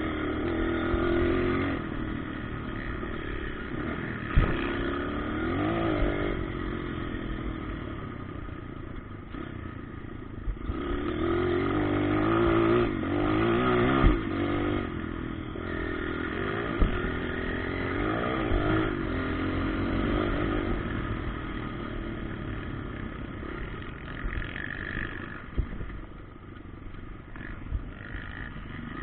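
Motocross bikes revving up and falling back again and again as they ride the track, with a few sharp knocks along the way.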